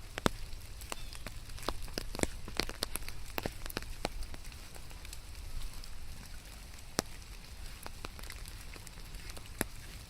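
Rain falling: a steady hiss with irregular sharp drops tapping close by, more of them in the first few seconds.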